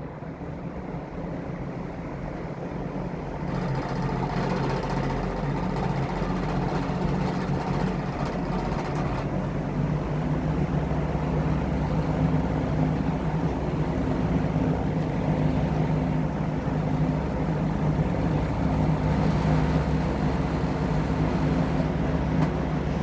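1970s Superior Electric metal-bladed box fan running, a steady motor hum under the rush of air from the blades. It grows louder over the first few seconds, then holds steady.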